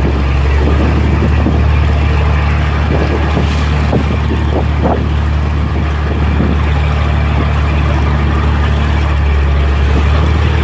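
Fishing boat's engine running steadily with a low, even hum, heard on board while the boat is underway.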